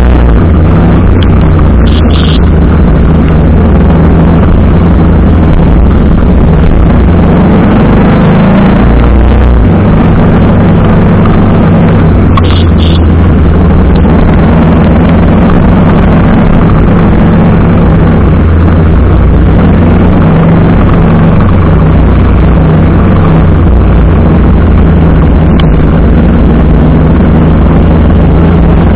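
TVS Apache RR310 motorcycle under way, heard from the bike: the single-cylinder engine running steadily under loud wind rush on the microphone, with a couple of brief high beeps.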